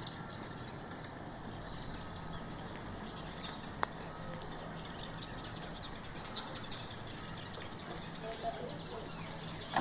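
Birds chirping in short, high calls over a steady background noise, with a single sharp click about four seconds in.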